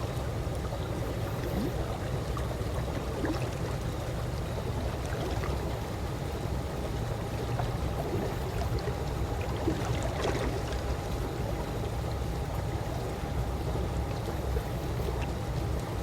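Gently lapping pool water: a steady wash of small splashes and trickles with no breaks.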